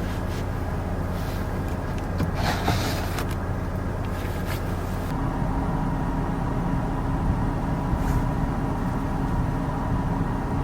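Steady vehicle engine drone with road noise, its tone shifting about five seconds in.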